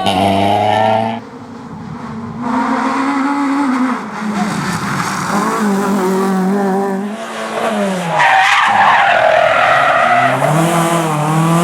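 Rally cars at full throttle on a stage, engines revving up and dropping in pitch at gear changes and lifts, with tyres skidding.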